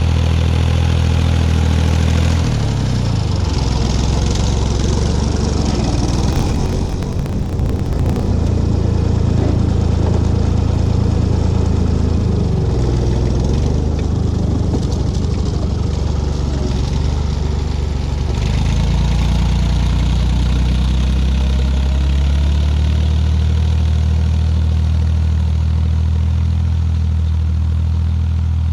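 Tractor engine running steadily while working a field with a cultivator, its pitch dropping and rising a few times as the load changes.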